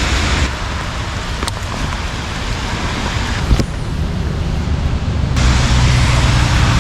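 Steady rain hiss with a low rumble underneath; the hiss drops away suddenly about half a second in and comes back near the end, with a couple of faint clicks.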